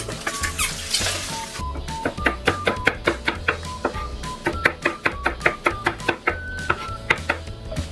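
Kitchen knife chopping quickly on a cutting board, about four to five strokes a second from about two seconds in until near the end, over background music with a steady beat.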